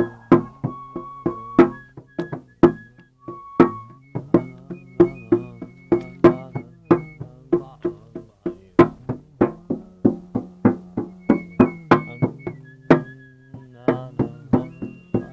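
A struck, pitched percussion instrument played in a quick, uneven run of notes, about three to four strikes a second, each note ringing on after the hit.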